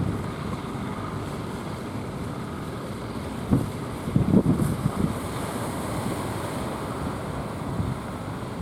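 Strong wind buffeting the microphone over a steady rush of sea surf, with a few heavier gusts thumping in about three and a half to five seconds in.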